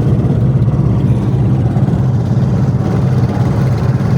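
A small fishing boat's engine running steadily at a constant speed.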